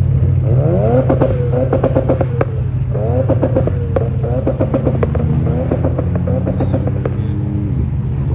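A vehicle engine revving up and holding high revs, twice, with rapid sharp pops and crackles, then dropping back near the end, over the steady low hum of idling engines.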